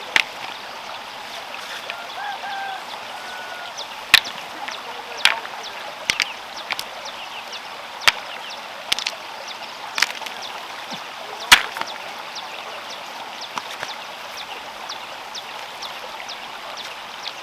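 A series of sharp, irregular knocks or taps, roughly one every second or two, over a steady hiss.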